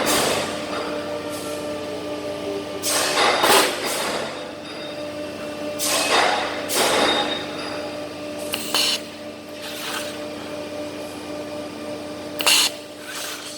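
Automatic TIG (argon) welding machine running with a steady hum, with short hissing bursts every few seconds.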